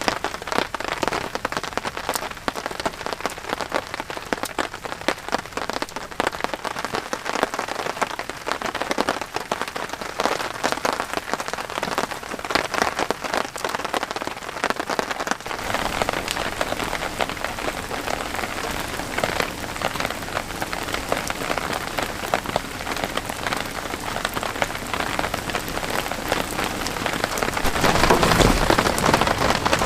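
Heavy rain falling, with many close drops striking a surface. About halfway it grows fuller with a low rumble underneath, and it is louder near the end.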